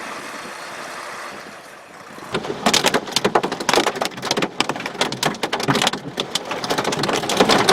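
Thunderstorm wind and rain: a steady rush that, about two seconds in, gives way to a dense, irregular clatter of sharp hits, as of heavy rain pelting a hard surface.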